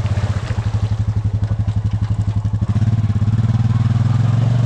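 Honda Rancher ATV's single-cylinder engine running at low revs with a pulsing beat, then revving up and holding steady about three seconds in as the quad reverses through creek water.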